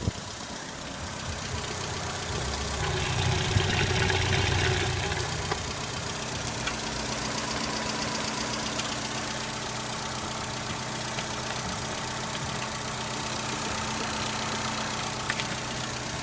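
Opel Corsa B's 1.2-litre X12SZ four-cylinder petrol engine idling steadily, growing louder for a couple of seconds about three seconds in.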